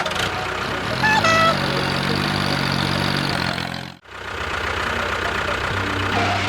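Vehicle engine running with a dense rattling noise. It revs up about a second in and then holds steady, cuts out abruptly at about four seconds, and comes straight back.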